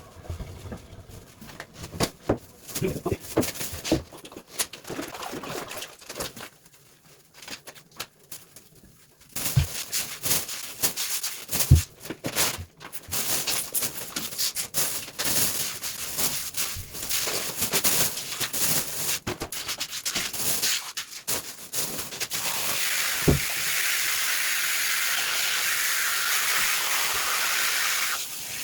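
Scattered clicks and knocks of hands and tools at work on a toilet, then a steady rush of water that starts about three-quarters of the way through and runs until just before the end.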